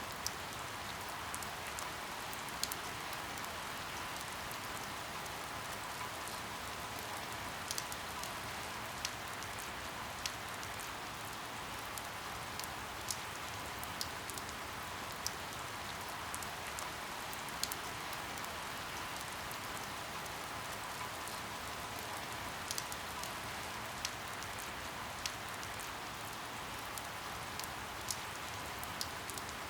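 Steady rain falling, an even hiss with a sharp drip tick every second or two.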